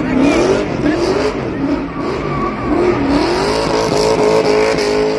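A high-revving engine blipped up and down several times in quick swoops, then held at a steady high pitch for about two seconds, as in a stunt-show rev-up.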